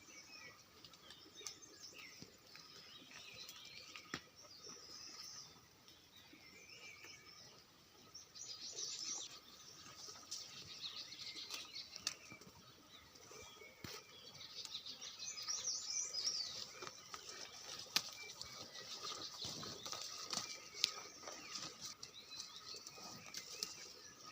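Birds chirping and twittering with wing flapping, the calls growing busier about a third of the way in and again past the middle.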